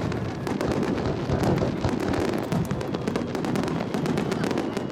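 Aerial fireworks going off: a dense crackle of many small sharp pops over a steady low rumble.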